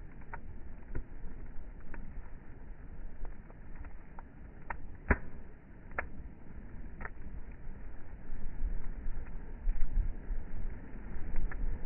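Bonfire crackling: scattered sharp pops and snaps of burning wood, the loudest about five seconds in, over a steady low rumble that grows louder in the second half.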